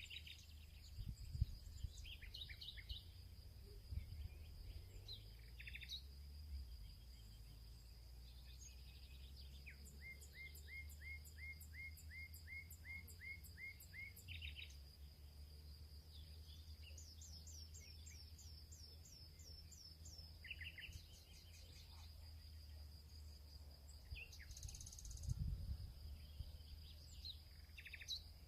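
Faint field soundscape: songbirds singing in quick runs of short repeated chirps, over a steady high-pitched insect drone and a low rumble.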